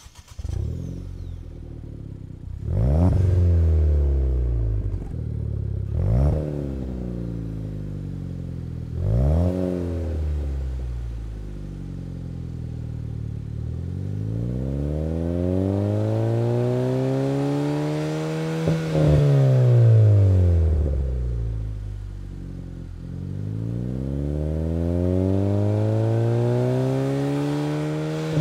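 Ford Fiesta ST's 1.6-litre EcoBoost turbocharged four-cylinder, heard through its exhaust, starting up and idling. It is blipped sharply three times about three seconds apart, then revved twice more slowly, each time climbing and falling back to idle.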